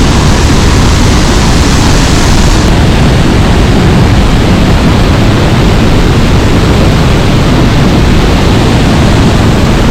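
Loud, steady rush of the Pailón del Diablo waterfall heard up close, with a touch of the hiss easing about two and a half seconds in.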